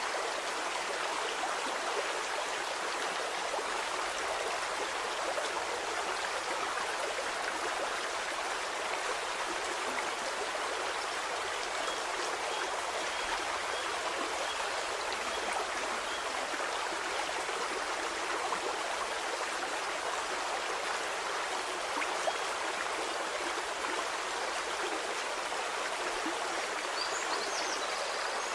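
A stream flowing steadily: an even rushing and trickling of water, mostly in the middle and upper range with little low rumble.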